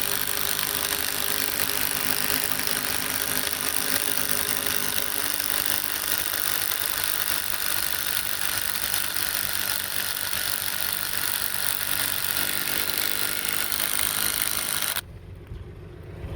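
Steady machine noise: a continuous hiss with a few held low tones, cutting off suddenly about a second before the end.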